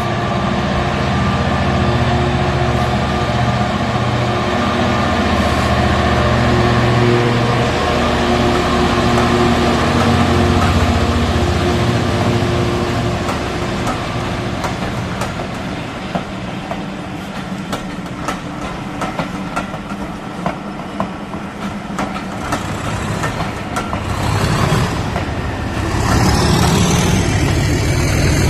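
Model diesel locomotive running with a steady diesel engine rumble. The rumble eases off in the middle, under a scatter of sharp clicks, then grows louder again near the end.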